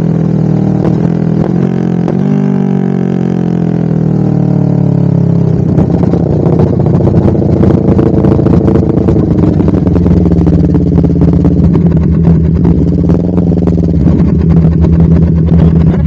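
Honda CBR250RR parallel-twin engine running through a DST full exhaust system. Its pitch falls over the first few seconds, then the note turns louder and rougher with small rises and falls in revs, and it cuts off suddenly at the end.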